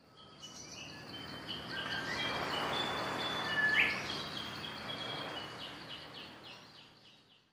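Birds chirping and calling over a rush of noise that swells and then fades away. There are short whistled notes, one sharp upward call near the middle, and a run of quick repeated chirps later on.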